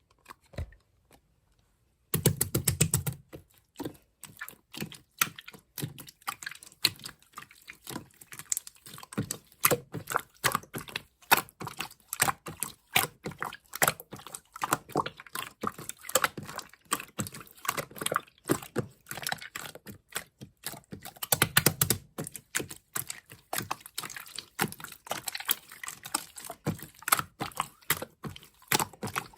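Glossy slime being squeezed, poked and folded by hand, giving dense, irregular sticky clicks and small air-bubble pops. It starts about two seconds in, after near silence, with a few heavier squishes among the clicks.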